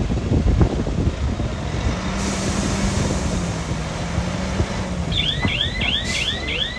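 Heavy construction machine's diesel engine running with a dense rumble and clanking, a steady hum joining in for a few seconds. Near the end a rapid series of high chirps, about three a second, sounds over it.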